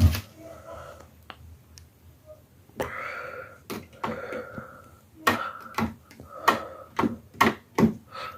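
Footsteps walking across the floor indoors, quicker and more regular in the second half, with some rustling in between.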